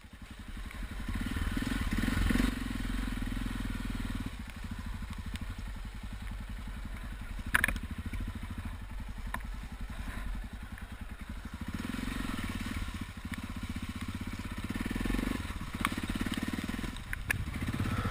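Yamaha XT660Z Ténéré's single-cylinder engine running steadily, fading in at the start and building over the first two seconds. A sharp knock sounds about seven and a half seconds in.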